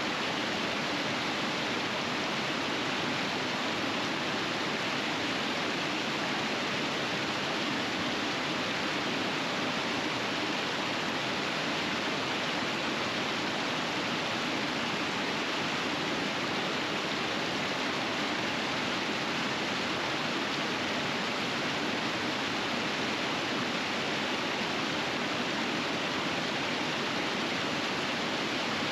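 Rushing water of river rapids: a steady, even roar of flowing water with no change in level.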